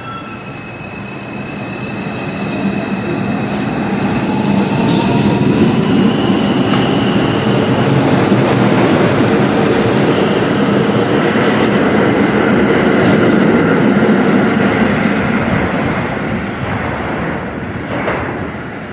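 R142 subway train passing along the platform. Its rumble swells to a peak midway and fades toward the end, with high-pitched wheel squeal and occasional clicks over rail joints.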